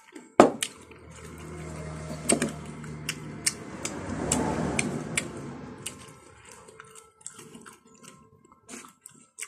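Close-up wet chewing and mouth sounds of someone eating ripe papaya, with many small clicks. There is a sharp knock about half a second in.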